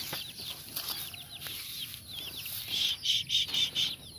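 Small birds chirping: repeated short, high, hooked chirps, with a quick run of short notes about three seconds in.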